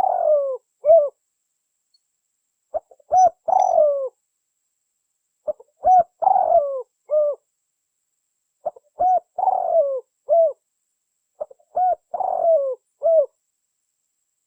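Spotted dove (tekukur) call used as a lure: the same cooing phrase repeats about every three seconds, five times. Each phrase is a few short coos and one longer falling coo, with complete silence between phrases.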